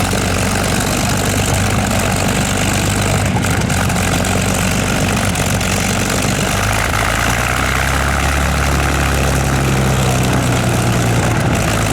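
Propeller aircraft engine running steadily close by, its low drone growing stronger about halfway through.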